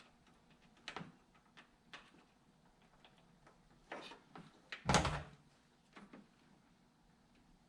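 Tools and parts being handled during wire crimping work: a few light clicks and knocks, with a louder thump about five seconds in.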